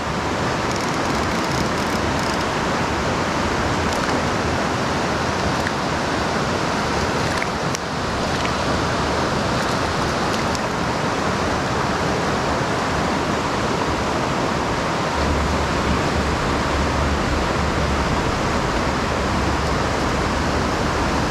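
Creek water rushing steadily, a constant even hiss. A low rumble joins in about three-quarters of the way through.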